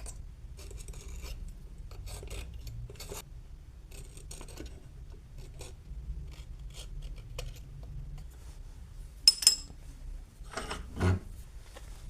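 Hand file rasping on a metal part in short, uneven strokes, roughly one or two a second. Near the end there is a sharp metallic clink followed by a heavier knock.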